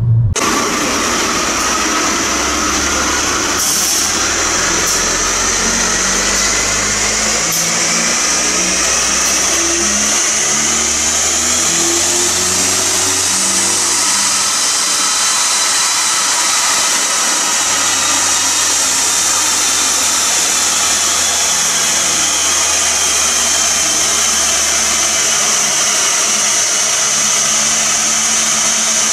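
Opel Astra J OPC's turbocharged 2.0-litre four-cylinder running under load on a chassis dynamometer, breathing through a catless downpipe, with a high whine over the engine note. The pitch climbs slowly over the first dozen seconds, then holds steady.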